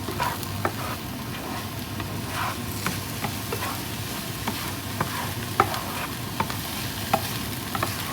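Food sizzling in a frying pan while a utensil stirs it, with frequent irregular clicks and taps of the utensil against the pan over a steady hiss.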